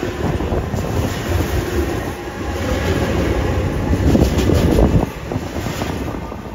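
Long Island Rail Road train passing close by, the wheels rumbling and clicking over the rail joints. The sound falls away near the end as the train goes by.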